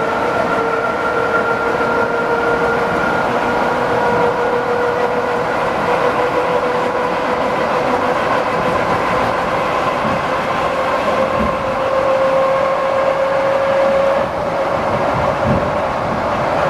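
ED4M electric multiple unit running between stations: a steady rumble of wheels on rail, with a whine that slowly rises in pitch. A few knocks from the wheels come about two-thirds of the way through.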